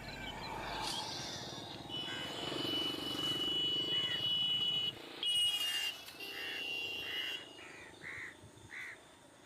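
Outdoor bird calls. A long steady high call lasts about three seconds, then a run of short repeated caws, about two a second, fills the second half, typical of crows.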